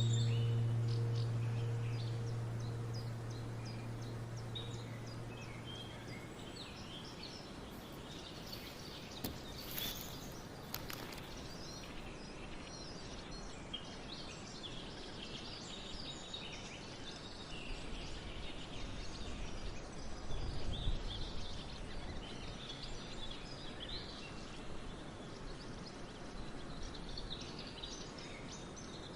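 Small woodland birds chirping and singing over a steady background hiss. A low held musical note fades out over the first few seconds, and there is a brief low rumble about two-thirds of the way through.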